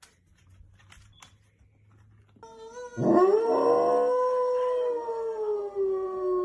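A dog giving one long howl about three seconds in, lasting about three and a half seconds. The howl rises sharply, then slides slowly down in pitch, given in reply to being spoken to, as if "talking" back.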